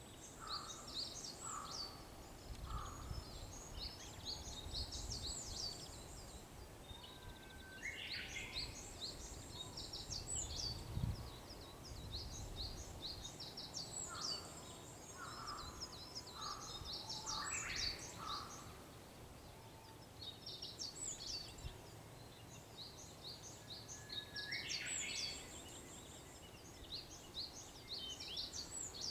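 Japanese bush warbler singing its 'hoo-hokekyo' song three times, a held whistle rising into a quick flourish, over constant high twittering of other small birds. A low rumble runs through the first half, with a thump about eleven seconds in.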